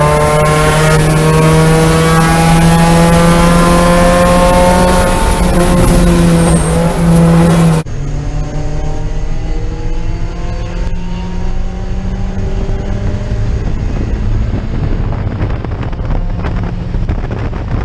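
Mazda Miata four-cylinder engine running at high, steady revs on track, loud and close. About eight seconds in, the audio cuts to a quieter in-cabin recording: the engine pulls up through the revs over wind and road noise.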